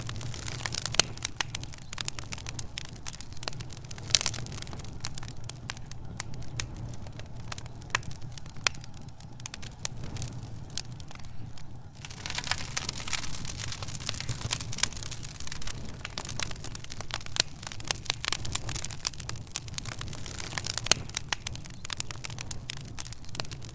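Fire in a fireplace crackling, with many irregular sharp pops and snaps over a steady low hum. The pops thin out briefly about ten seconds in, then pick up again.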